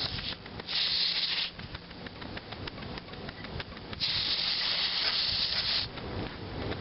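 Steam hissing from the whistle of a Fleischmann 120/2 live steam model engine in two bursts, a short one about a second in and a longer one past the middle, with no whistle tone. The boiler is overfilled, so the whistle hisses and spurts water instead of sounding.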